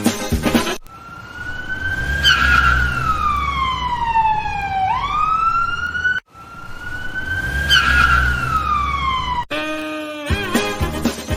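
Police siren sound effect: a wail that slides slowly down in pitch and then sweeps quickly back up, played twice in a row, with a low engine rumble under it. A short buzzy tone follows near the end.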